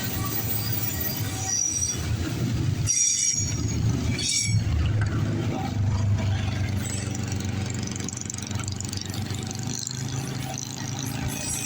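Freight train rolling past: a steady rumble of cars on the rails, with brief high wheel squeals about three and four and a half seconds in.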